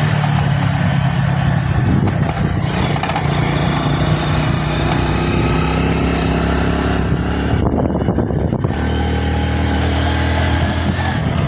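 Motorcycle engine running steadily while riding along, its note briefly changing about eight seconds in.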